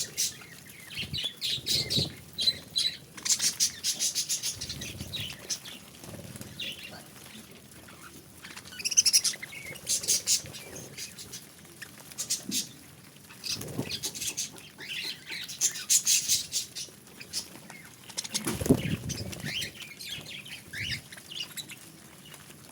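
Budgerigars chirping and chattering in quick, high twitters that come in bursts, with a few soft low thumps mixed in.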